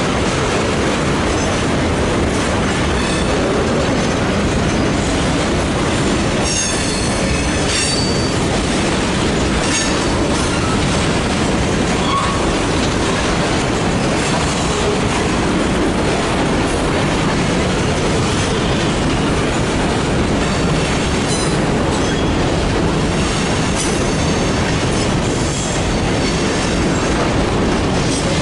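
Freight train cars rolling steadily past on the rails, with clacks over the joints and high-pitched wheel squeals now and then, strongest about seven seconds in.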